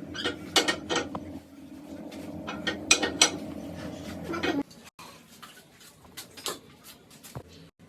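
Metal tools clinking and knocking in quick, irregular strikes over a steady low hum. A little past halfway the hum cuts off suddenly, and only scattered lighter clicks follow.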